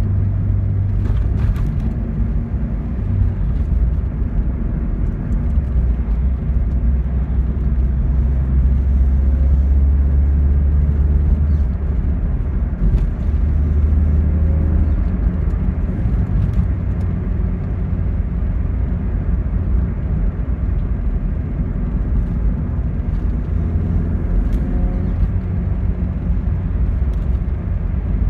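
Inside the cabin of a 1992 Alfa Romeo 33 1.3 V on the move: its flat-four boxer engine drones low and steady under road noise, running on freshly fitted spark plugs. The engine's pitch drops a few seconds in and rises again about halfway through as speed changes.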